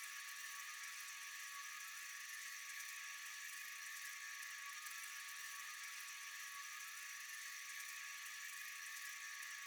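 Steady chorus of night insects, an unbroken high-pitched shrill with no pauses or changes.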